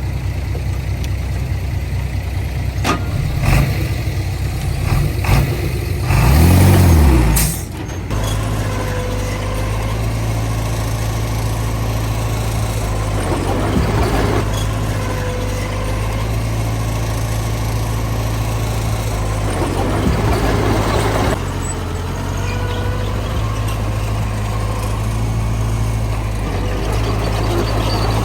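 Heavy diesel engines of a dump truck and a small bulldozer running steadily, with a loud surge of engine noise and hiss about six seconds in.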